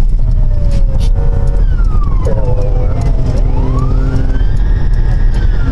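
Police car siren wailing, its pitch sliding slowly down, then up and down again, over a loud low rumble of engine and road noise.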